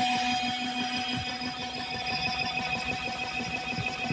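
Portable mini washing machine's spin-dryer motor running at speed, a steady whine over an uneven low rumble from the spinning basket.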